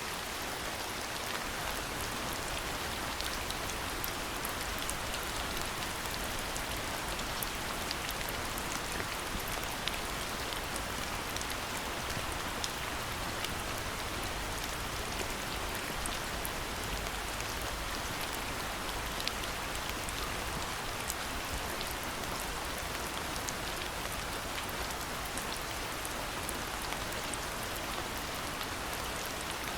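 Steady rain falling, with many sharp individual drop hits ticking through an even wash of rain noise.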